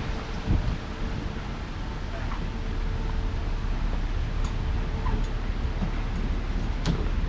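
Steady low rumble of road and wind noise from a moving car, with faint talk in the background.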